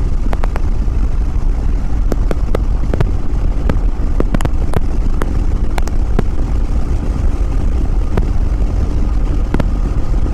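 Yamaha WR250R's 250 cc single-cylinder engine running at a steady highway cruise under a dense, even low rumble of riding noise, with scattered sharp ticks.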